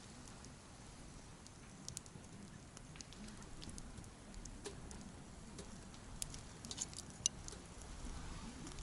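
Wood campfire burning, with scattered sharp crackles and pops over a faint low rumble of the flames. The pops cluster a little after the middle.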